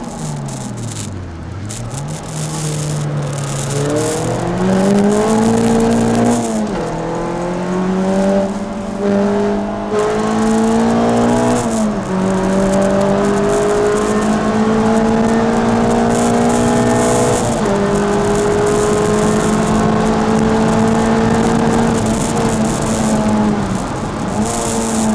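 Peugeot 306 Rallye engine heard from inside the cabin at full track pace. The revs dip within the first two seconds, climb with gear changes about six and twelve seconds in, then hold high and fairly steady with another shift near eighteen seconds and a brief lift near the end.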